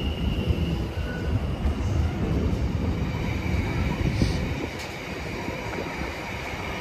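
Intermodal container freight train rolling past, its wagons making a steady low rumble on the rails. A thin, steady high whine sits above the rumble.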